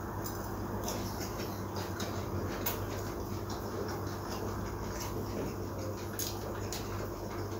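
A person chewing crispy fried bread, with several short sharp clicks and small taps scattered through, over a steady low hum.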